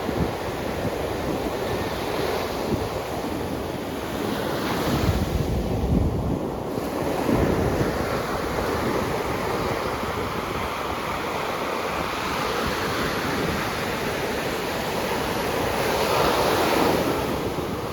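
Sea waves washing and breaking on the shore in a continuous surf, swelling louder about a third of the way in and again near the end. Wind buffets the microphone with low rumbles.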